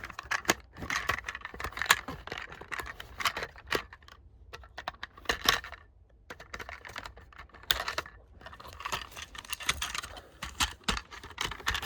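Small clicks, taps and rattles of a diecast toy hauler being handled as its trailer is worked open, plastic and metal parts knocking together in quick irregular runs with a short lull partway through.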